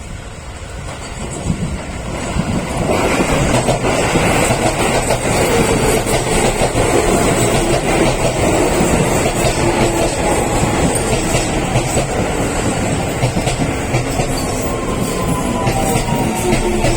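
Keio Line electric train running through the station, its wheels clicking over rail joints. Near the end a whine glides down in pitch as the train slows.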